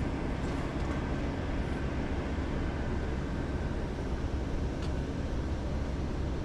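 Steady low rumble of a moving vehicle, engine and road noise without change.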